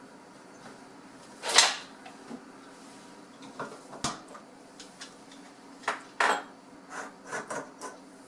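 Metal faucet parts and hand tools clinking, knocking and scraping as a leaky faucet is taken apart to change its cartridge. The loudest is a short clatter about a second and a half in, then a sharp click, then a run of knocks and clicks near the end.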